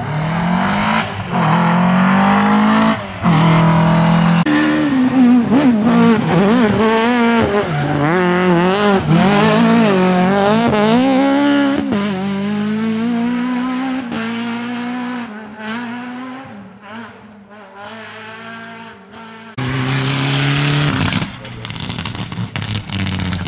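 Rally car engines revving hard, the pitch rising and falling quickly as the cars are driven past, with tyre squeal. The sound fades away about two-thirds of the way through, then engine sound returns abruptly near the end.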